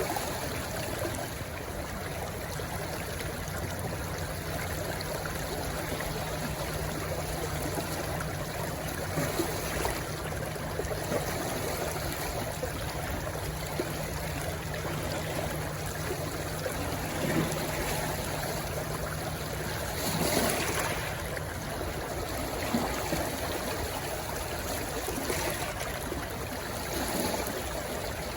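A shallow stream rushing and trickling over stones where it runs into the sea, in a steady wash with small swells.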